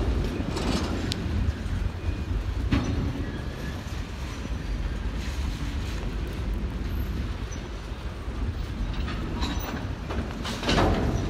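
Freight train of boxcars rolling slowly on the tracks: a steady low rumble with scattered clanks, the loudest one near the end.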